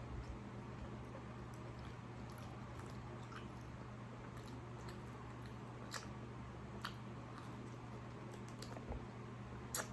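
A person chewing food close to the microphone, with a few sharp clicks, over a steady low hum.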